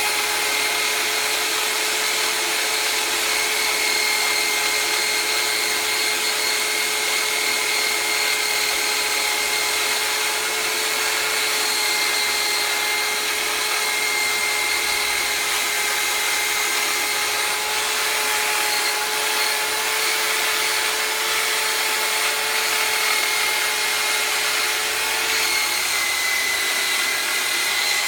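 Small electric power tool running steadily with a constant whine and a rubbing hiss as it polishes an aluminium engine case; the pitch shifts slightly near the end.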